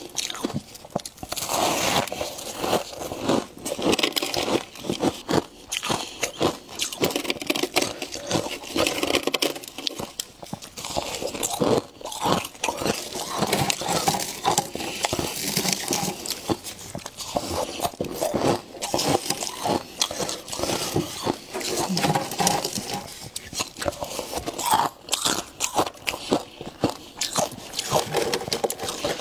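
Close-up crunching as a person bites and chews ice, a dense, irregular run of sharp cracks and crunches one after another.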